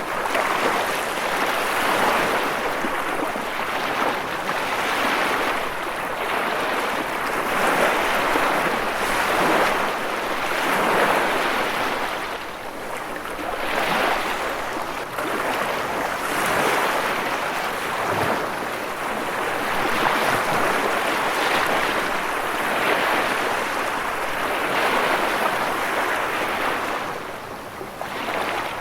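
Ocean surf: waves breaking and washing in a continuous hiss that swells and eases every few seconds.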